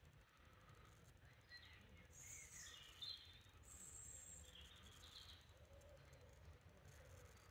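Faint birdsong over near silence: a few short chirps and a brief thin high whistle from small birds in the middle, then fainter lower calls near the end, over a low background rumble.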